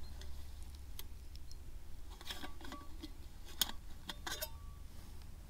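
A small camping mug with a lid being unpacked and handled: a few separate clicks and knocks with some rustling, the sharpest knock a little after halfway, a couple of them leaving a short ring.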